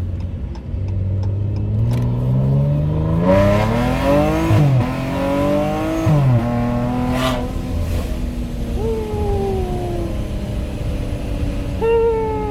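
Dodge Challenger's V6 through a Borla ATAK cat-back exhaust with the mufflers deleted, accelerating hard in sport mode. The exhaust note climbs, drops sharply twice as the gears shift up, then settles to a steady cruise, with a falling note twice later on.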